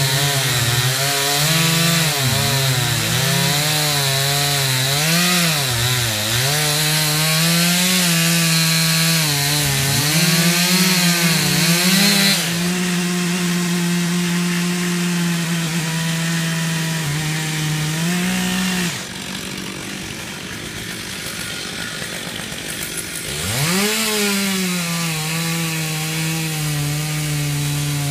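Gas chainsaw running hard and cutting wood, its engine pitch rising and falling with the throttle and holding steady for a few seconds in the cut. About nineteen seconds in it drops to a quieter idle, then revs up again.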